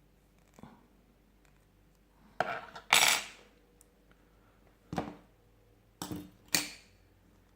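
Small metal tools and phone parts being handled and set down on a work surface: a rattling clatter about two and a half seconds in, then several sharper clinks over the next few seconds.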